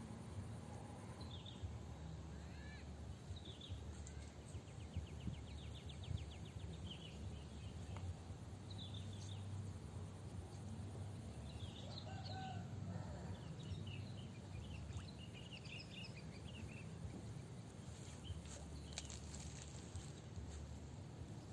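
Outdoor ambience: scattered short bird calls and chirps come and go over a steady low background rumble, with a quick run of ticks a few seconds in.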